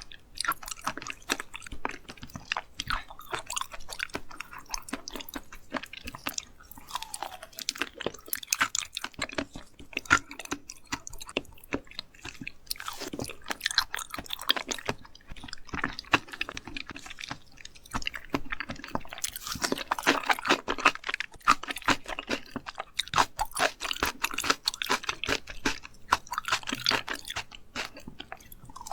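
A person chewing raw seafood sashimi, with dense, irregular crunching and crackling bites.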